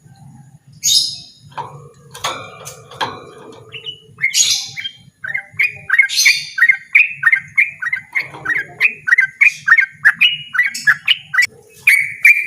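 Yellow-vented bulbul (trucukan) singing, with a few harsh calls and clicks, then, from about five seconds in, a rapid run of short repeated notes at roughly three a second.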